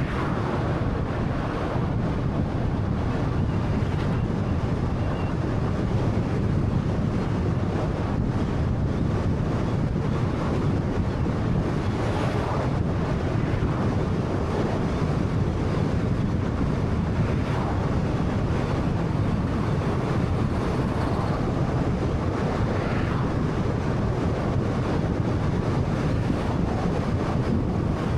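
Steady road noise from a moving 2013 Honda Fit: tyre roar and wind rush at a constant level with no speech.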